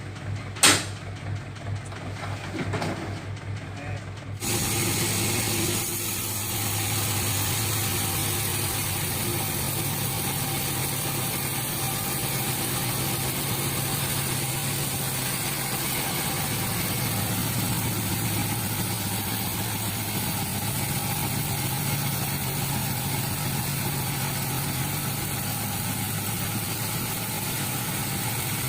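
A sharp knock about a second in, then from about four seconds an engine runs steadily and loudly to the end with a constant hum.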